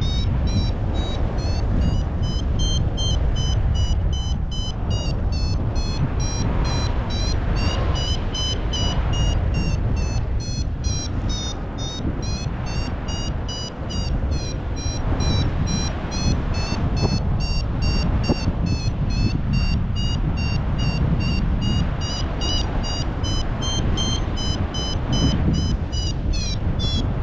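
Paragliding variometer beeping steadily in quick pulses, its pitch rising and falling as the climb rate changes, which means the glider is climbing in lift. Under it is heavy wind buffeting on the microphone.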